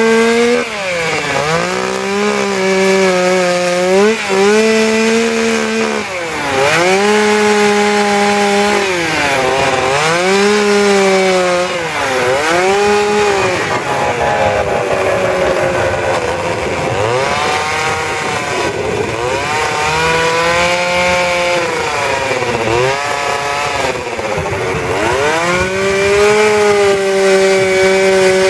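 Two-stroke petrol chainsaw running at high revs and cutting wood. Its engine note repeatedly dips as the chain bites into the wood under load, then climbs back as the cut eases, every few seconds.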